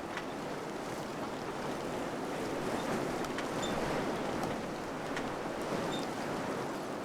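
Wind blowing steadily in slow swells, with scattered faint ticks and rattles.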